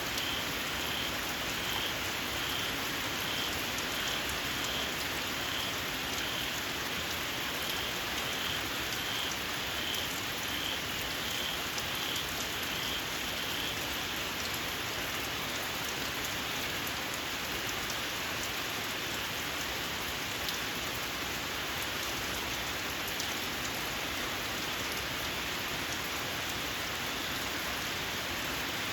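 Steady rain falling, with fine drop ticks. A small frog repeats a short, high call about one to two times a second, then falls silent about halfway through.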